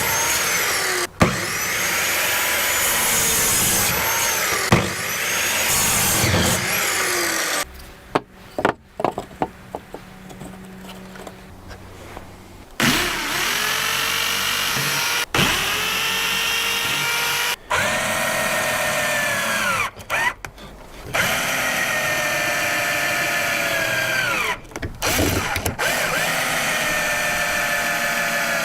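Power drill running in a series of bursts of a few seconds each, spinning up at the start of each and winding down when released. There is a pause of about five seconds with light knocks and handling clicks near the middle.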